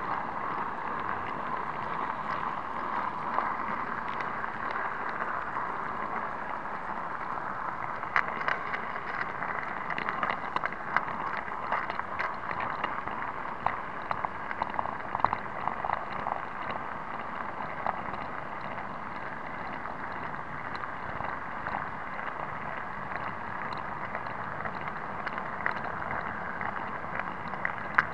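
Small electric motor and gears of an 009 narrow gauge model diesel locomotive whirring steadily as it runs, with irregular clicks of the wheels passing over rail joints and pointwork, thickest a third of the way through.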